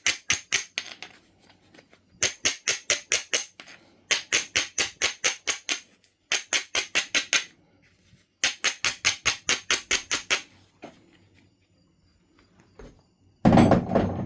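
Knife River Flint being worked in runs of quick, sharp, evenly spaced strokes, about five a second, with short pauses between, in the rhythm of abrading an edge with an abrading stone. Near the end comes a single louder, duller thump.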